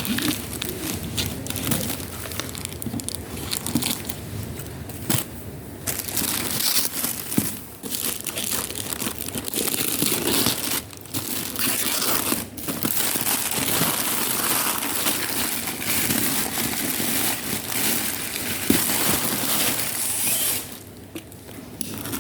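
Parcel packaging being crinkled and rustled as it is unwrapped by hand, irregular and ongoing with brief pauses.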